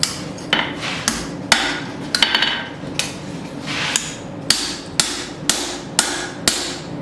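Hand hammer striking hot steel on an anvil while forging a wrapped tomahawk eye: about a dozen sharp, ringing blows, uneven at first, then settling into a steady two a second.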